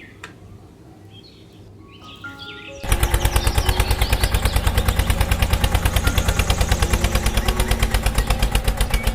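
A small machine motor starts abruptly about three seconds in and runs with a rapid, even pulsing of about eight beats a second, loud over background music. Before it, birds chirp faintly.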